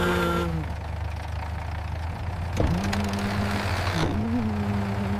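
Road roller engine running with a steady low drone, an engine tone over it that drops out a little after the start and comes back about two and a half seconds in, wavering in pitch.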